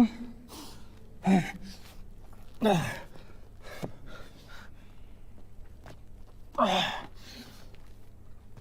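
A woman sobbing: three short crying sobs that fall in pitch, with gasping breaths between them.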